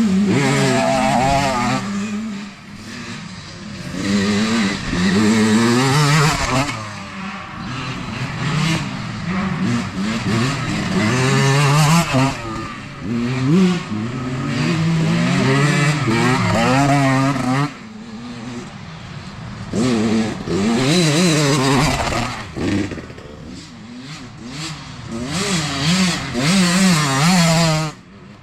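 Youth dirt bikes riding past one after another, engines revving up and dropping back again and again as the riders work the throttle and shift.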